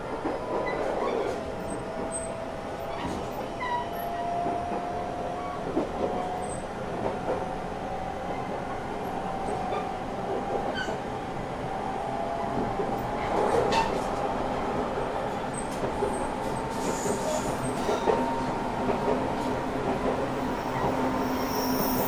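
JR Shikoku 8000 series electric train running, with a thin motor whine climbing slowly in pitch as it gathers speed over a steady rumble, and scattered sharp clicks from the wheels and track.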